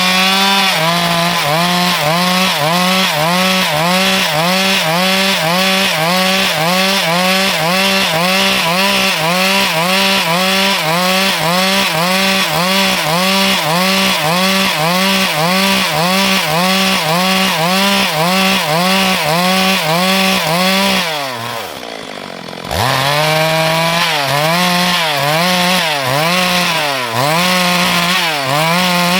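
Stihl MS 382 two-stroke chainsaw at full throttle cutting wood, its engine pitch dipping and recovering about twice a second under the load of the cut. About two-thirds through the revs fall away briefly, then the saw revs back up and cuts on.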